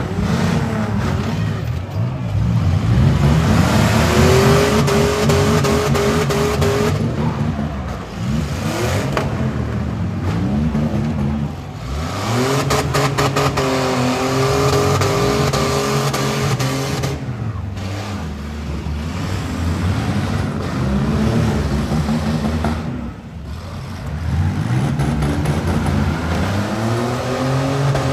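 Several demolition derby van engines revving up and down at once, pitch climbing and falling as the drivers accelerate and back off between hits, with a few short knocks of impacts partway through.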